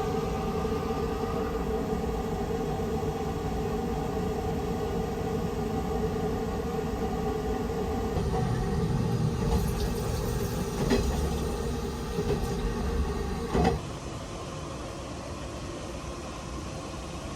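Sunrise Izumo sleeper train running, heard from inside the carriage: a steady rumble with a few clicks and knocks past the middle. About three-quarters of the way through it cuts sharply to a quieter, even hum.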